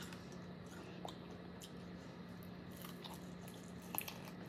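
Faint biting and chewing on spicy chicken wings, with a few soft crunchy clicks; the loudest comes about four seconds in.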